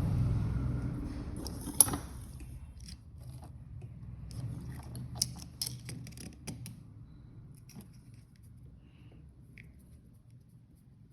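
Handling noise from small objects: scattered clicks and scrapes, with a sharp click about two seconds in and two more a little past five seconds. A low rumble fades out over the first few seconds.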